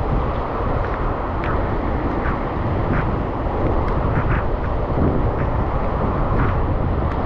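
Steady wind and road noise from a bicycle ridden through a heavy rainstorm, with scattered light ticks through it.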